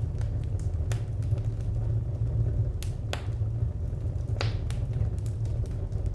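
Wood fire crackling, with scattered sharp pops over a steady low rumble; a few pops stand out louder.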